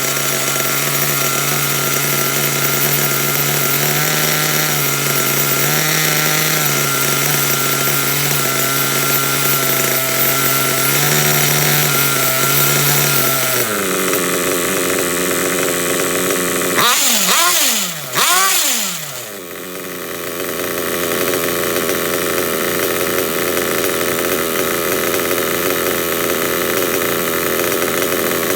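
A small nitro RC buggy engine runs steadily at a fast idle. About 14 seconds in, the pitch drops. A few seconds later it gives two quick throttle blips, rising and falling, then settles into a lower, steady idle while the low-speed needle is being tuned.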